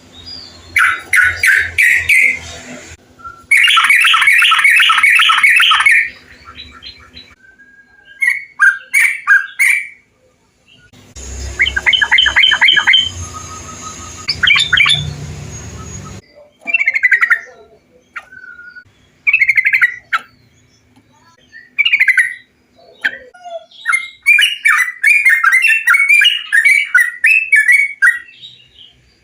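Recorded bulbul (trucukan) song: short bubbling phrases of quick notes, one after another with pauses between, from several recordings joined with abrupt changes in background noise. Played as a lure recording to prompt kept bulbuls to sing.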